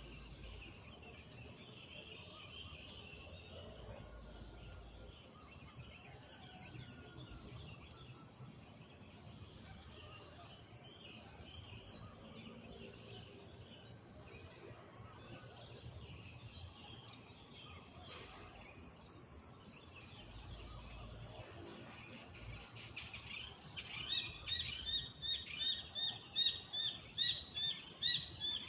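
Rural morning ambience: birds chirping faintly over a steady high insect drone. About 24 seconds in, one bird close by starts a loud, rapid series of repeated short notes, about two a second.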